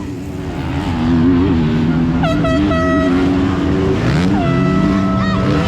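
Several motocross bikes' engines racing, rising in loudness over the first second and then holding loud. Two long high steady tones are heard over the engines, one in the middle and one near the end, each lasting about a second.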